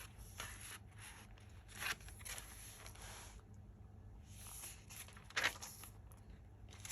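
Paper and card rustling as the pages of a handmade junk journal are handled and turned, with short louder brushes about two seconds in and again about five and a half seconds in.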